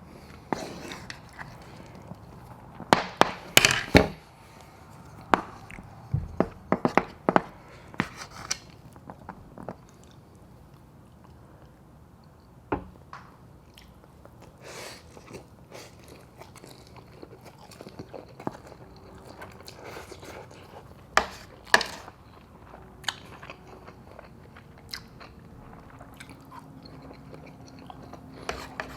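Close-miked eating sounds of a mukbang: chewing and biting with sharp clicks and crunches. They come in clusters a few seconds in and again about two-thirds through, with quieter chewing between.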